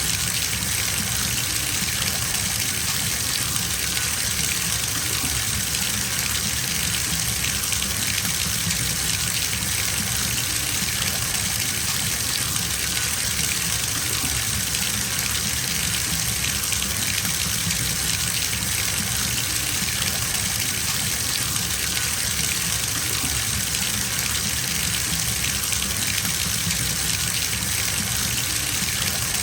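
Bathtub tap running steadily, water gushing into the tub as it fills.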